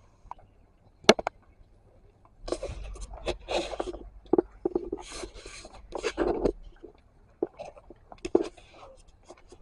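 Handling noise on a phone's microphone: scattered clicks and knocks, with a few seconds of rough scraping and rubbing against the mic in the middle.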